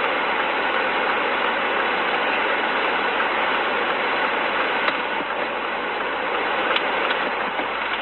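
Steady rushing noise of a moving vehicle, road and engine noise without any clear engine pitch, holding even throughout.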